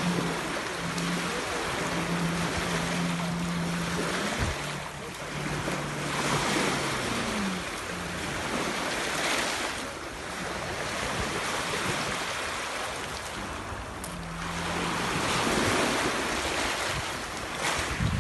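Sea waves washing onto the shore, swelling and falling back every few seconds, with wind buffeting the microphone. A low steady hum runs under the surf for the first several seconds and returns briefly later.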